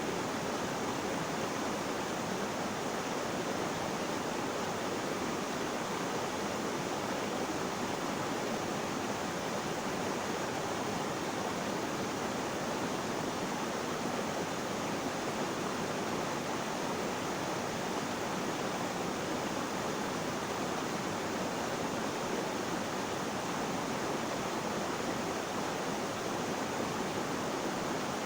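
Flowing water rushing in a steady, unbroken wash with no splashes or changes.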